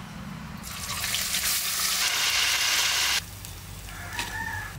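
Food frying in hot cooking oil, a loud steady sizzle that builds from about half a second in and cuts off abruptly a little past three seconds in.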